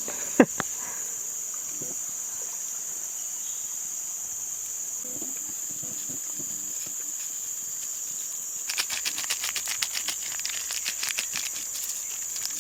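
Steady high-pitched chorus of forest insects. About nine seconds in, a quick run of sharp clicks and taps lasts around three seconds.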